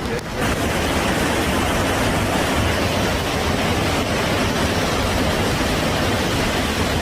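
Hurricane-force wind and rain: a loud, steady rushing noise with no let-up.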